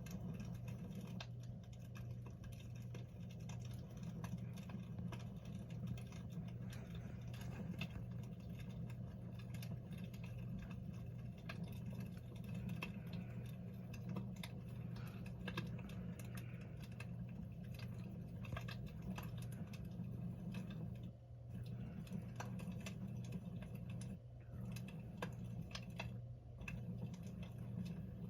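Wood fire crackling in a fireplace: a steady run of irregular small pops and snaps, over a constant low hum.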